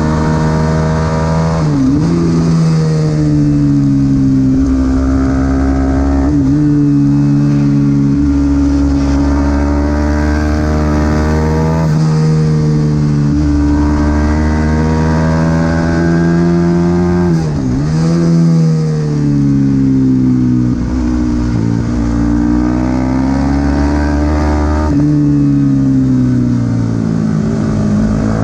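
Supersport 300 race motorcycle engine at racing speed, its revs climbing and dropping repeatedly with sudden pitch breaks at the gear changes, over wind rush.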